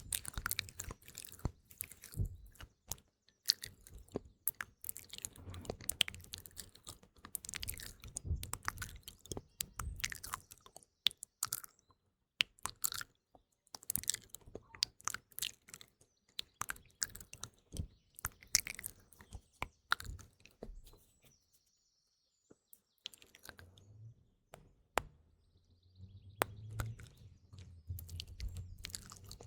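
Close-miked ASMR mouth sounds: many irregular wet clicks and smacks of the lips and tongue. They stop for about two seconds late on, then resume.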